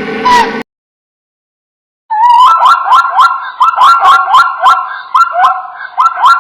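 An animal's rapid series of short, sliding chirping calls, about three to four a second. They start after a brief sound cuts off and about a second and a half of silence.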